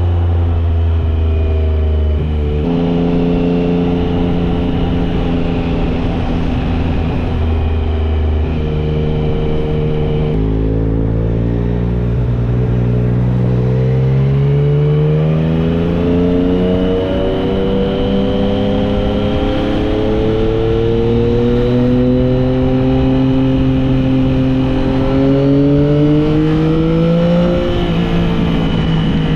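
Yamaha Tracer 9 GT's 890 cc inline-three engine through a Dominator aftermarket exhaust, heard while riding. The engine note falls and steps down over the first ten seconds, then climbs steadily for about fifteen seconds under acceleration. It drops sharply near the end as it shifts up.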